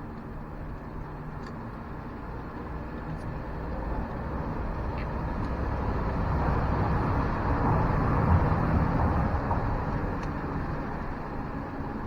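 A vehicle driving past: a low rumble that swells from about four seconds in, is loudest around eight seconds, then fades.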